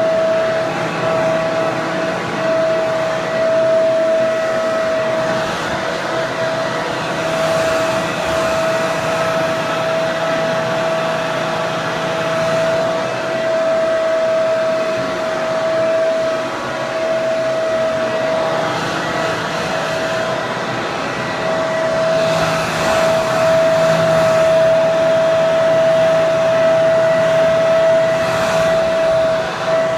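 Hair dryer running steadily: a continuous rush of air with a strong steady whine from its motor and fan.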